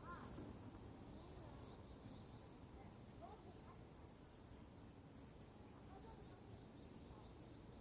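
Faint morning birdsong: small birds chirping in short, high, repeated notes, with a few lower calls near the start and about three seconds in, over a steady faint hiss.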